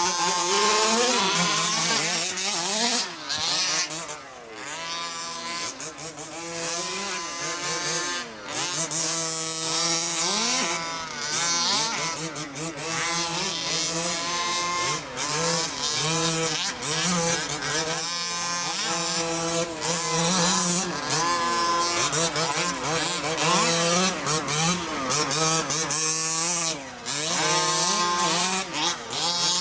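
Several 1/5-scale gas RC trucks' small two-stroke engines revving up and easing off over and over as they run around the track, the pitches of more than one engine overlapping.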